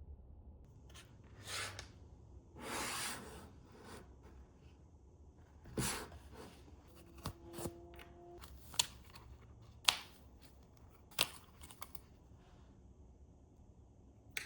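Hands at work on small parts: two bouts of rustling or tearing in the first few seconds, then a string of sharp clicks and taps, with a short ringing tone in the middle of the run.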